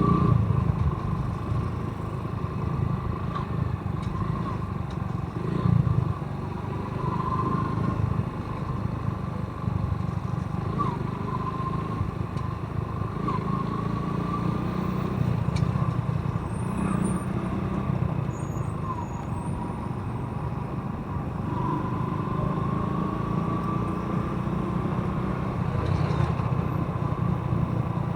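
Motorcycle engine running on the move, with a steady low rumble and a pitch that rises gently several times as it accelerates.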